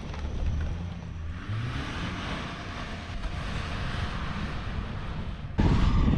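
A car engine revving, its pitch rising about a second and a half in, over a steady hiss. Near the end the sound jumps suddenly louder and deeper.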